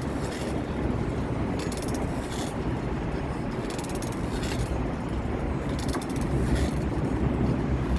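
Steady wind rumble on the microphone and rolling road noise while riding a bicycle, with a faint high hiss recurring about once a second and getting slightly louder near the end.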